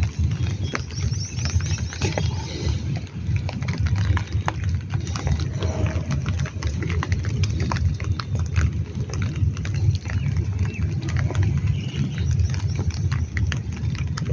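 Rain falling, with many close drops ticking sharply over a heavy, steady low rumble.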